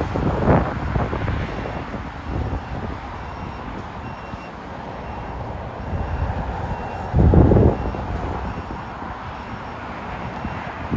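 Steady low engine rumble, with wind buffeting the microphone hard about half a second in and again past seven seconds. A faint high beep repeats about once a second.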